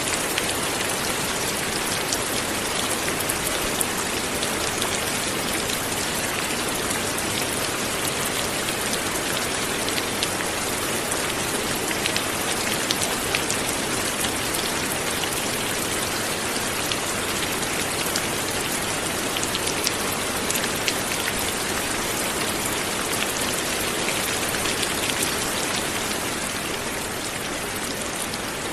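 Light rain falling steadily, an even hiss with scattered individual drop ticks, easing slightly near the end.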